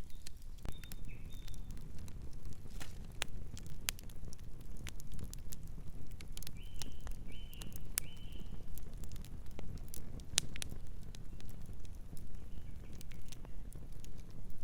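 Campfire burning with irregular sharp crackles and pops over a steady low rumble. A bird gives short calls, three in a row about halfway through.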